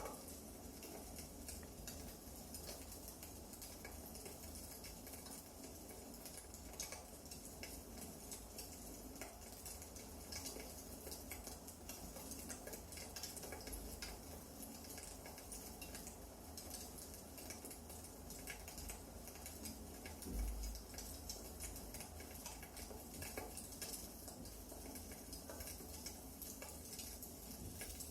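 Wood fire crackling, with irregular small pops and snaps over a steady low hiss. A single dull low thump about twenty seconds in.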